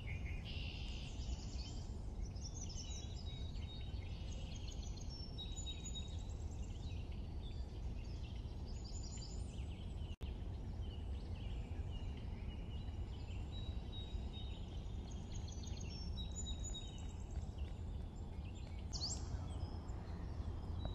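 Birds chirping and calling in short, high notes over a steady low rumble of background noise, with a brief break in the sound about ten seconds in.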